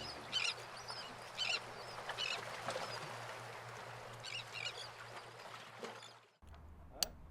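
Short bird calls, duck-like, repeating irregularly several times over a faint steady hum. Near the end, after a cut, a single sharp hammer strike on metal: the first tap on the anchor chain's connecting link.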